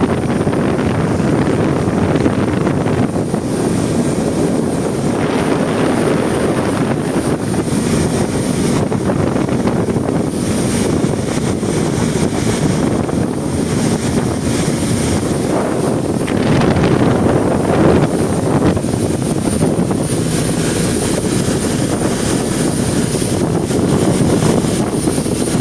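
Yamaha 300 HP outboard motor running steadily, a little louder around the middle.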